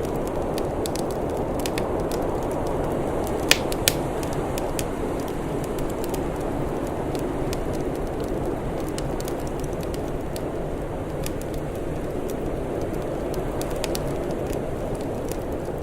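Wood fire crackling with scattered small pops, two sharper pops a little under four seconds in, over a steady low rushing noise.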